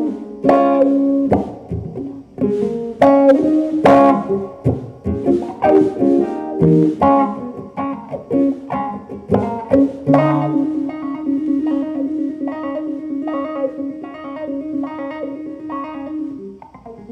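Instrumental guitar music with plucked notes and chords. About ten seconds in it settles into a held low note under a steadily repeated picked figure.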